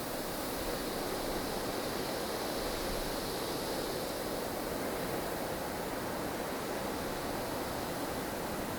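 Snowstorm wind blowing steadily, a dense rushing noise with a slight swell in the upper hiss about three seconds in.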